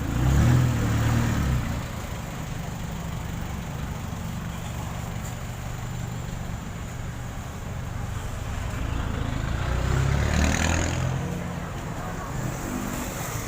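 Road traffic: a steady engine hum with motor vehicles passing close by, one louder pass right at the start and another building to a peak about ten seconds in.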